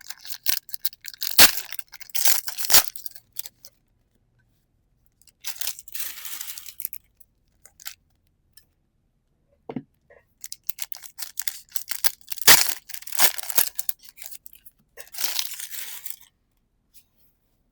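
Pokémon card booster pack foil being torn open and the cards handled: sharp clicks and handling noise, with two longer stretches of tearing and crinkling, one about six seconds in and one near the end.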